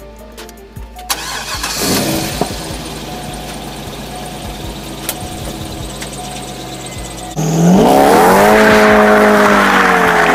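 C5 Corvette's 5.7-litre V8 starting about two seconds in and idling steadily, then about seven seconds in jumping to a loud, rising rev in a burnout, with the rear tyres spinning and squealing.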